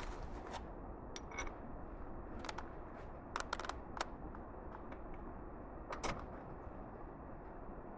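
Metal tools or parts being handled: a few scattered light clicks and clinks, a small cluster about halfway through and another near six seconds, over a steady background hiss.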